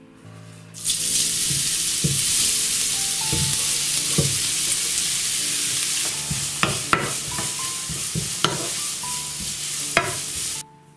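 Grated carrots dropped into hot oil in a nonstick frying pan, sizzling loudly from about a second in. They are stirred, the utensil scraping and clicking against the pan, mostly in the second half. The sizzle stops abruptly just before the end.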